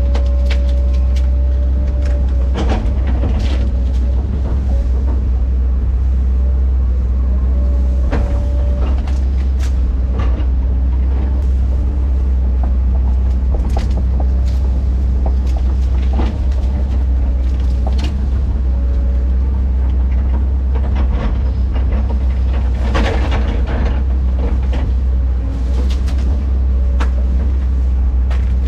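Heavy diesel earthmoving machine running steadily with a deep drone, and a faint whine coming and going. Scattered clanks and knocks run through it, typical of a tracked machine working dirt and rock.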